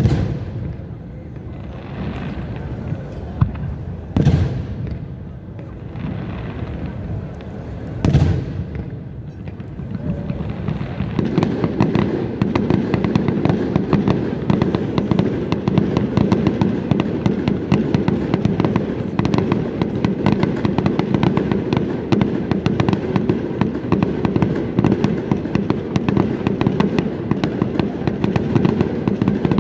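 Fireworks display: three single shell bursts about four seconds apart, each with a rolling rumble after it. From about eleven seconds in, a dense, continuous crackling of many small crackling stars.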